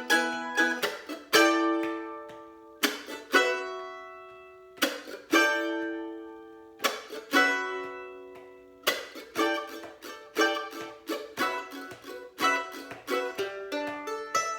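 Instrumental passage on a plucked string instrument: a few strummed chords, each left to ring out and fade, then quicker picked notes from about nine seconds in.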